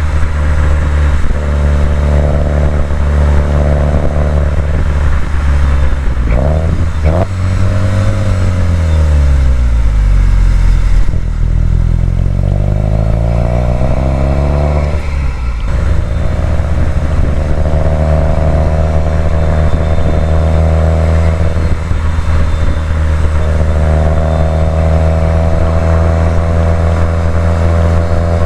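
Subaru WRX STI's turbocharged boxer flat-four engine driving on a winding road. It runs steadily, gives two quick rev blips about six to seven seconds in, and falls in pitch as the car slows. It then climbs again under acceleration until a gear change around fifteen seconds in, and settles back to a steady pull.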